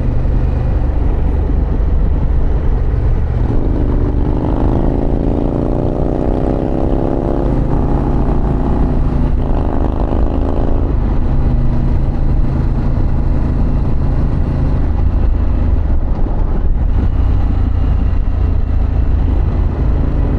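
Harley-Davidson Pan America's V-twin engine under way on the road, with wind rush. From about three and a half seconds in, the engine climbs in pitch through two or three gear changes, then settles back to a steady cruise.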